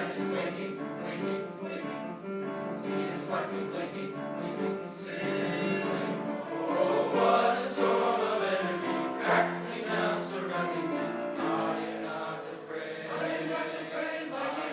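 Choral singing: many voices holding sustained chords that change every second or so.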